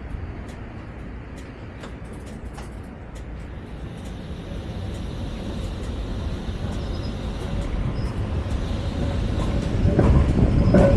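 Vario LF2R.E low-floor tram running on rails, heard from inside the car, growing steadily louder as it gathers speed, with a steady faint whine. A few sharp clicks come in the first few seconds, and a louder rumble of wheels on track comes near the end.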